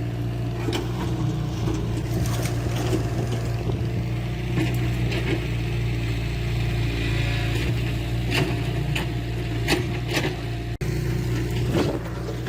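Diesel engine of heavy earthmoving machinery running steadily, with scattered metallic clanks and creaks from the working machine. The sound drops out for an instant about eleven seconds in.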